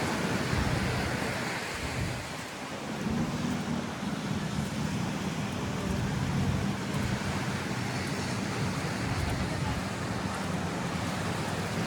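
Beach ambience: surf washing ashore and wind on the microphone, with a low steady hum underneath.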